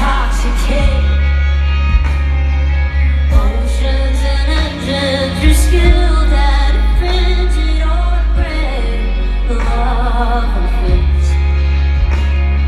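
Live pop-rock concert music played loudly through a festival PA, with heavy sustained bass, band instruments and sung vocal lines.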